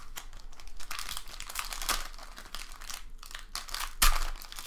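Crinkling of a Panini Optic football card pack's wrapper as it is handled and torn open, an irregular run of crackles with one sharp, loudest crackle about four seconds in.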